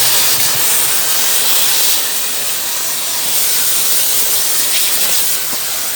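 Shark vacuum cleaner running with a crevice tool attached, a loud, steady hiss of rushing air.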